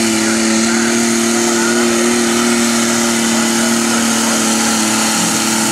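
Turbocharged diesel engine of a Pro Stock Cub Cadet pulling tractor running at high, steady revs under load, a loud, even engine note that holds the same pitch.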